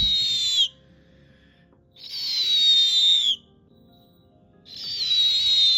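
Young snowy owl calling: a hissy, whistled screech about a second long, given three times at even intervals, each call dropping slightly in pitch at its end.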